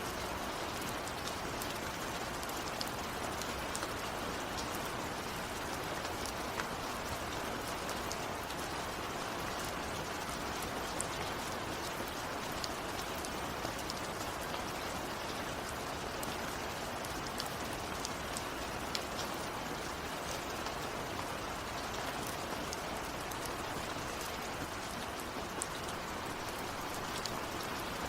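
Steady rain falling, with scattered single drops ticking close by. No thunder.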